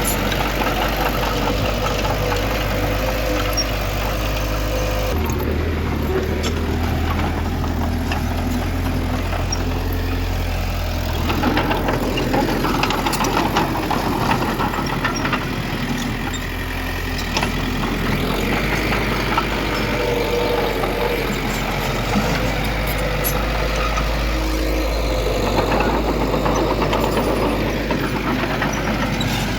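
Diesel engine of heavy earthmoving machinery running steadily, its low note shifting a few times as the load changes.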